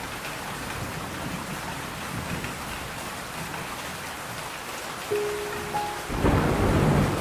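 Steady rain falling, with a few held musical notes coming in about five seconds in, then a loud rumble of thunder near the end.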